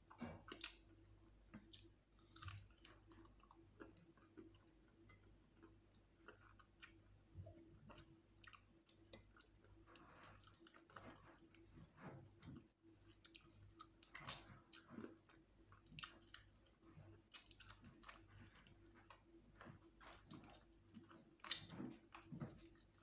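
Faint chewing and gnawing on a piece of fried chicken held in the fingers, with scattered small crunches and clicks.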